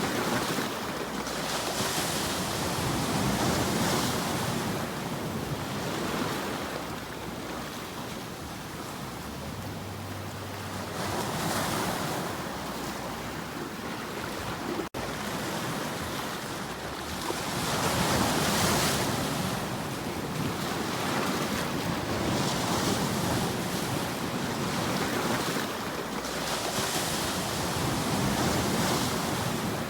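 Ocean waves breaking and washing on a shore, a steady rush that swells and fades every few seconds. About halfway through the sound cuts out for a split second.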